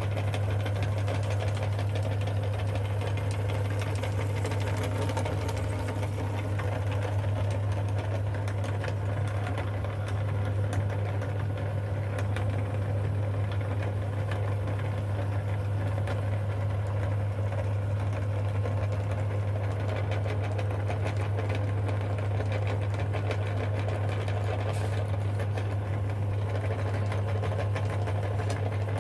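Electric meat grinder running with a steady low hum while grinding Reese's chocolate peanut butter candy, with fine crackling clicks throughout.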